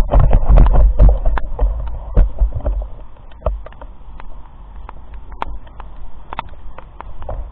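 Wind and handling rumble on a phone microphone while walking, heavy for the first three seconds and then easing, with irregular sharp taps and knocks throughout.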